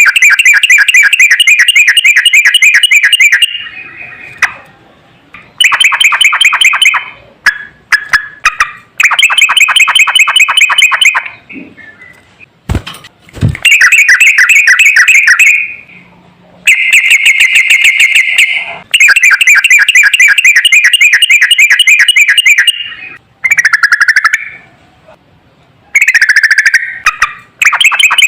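Yellow-vented bulbul (trucukan) singing: loud runs of rapid repeated notes, each lasting a few seconds, with short pauses between them.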